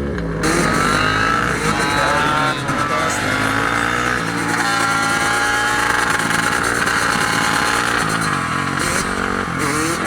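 Dirt bike engines running and revving, their pitch rising and falling repeatedly.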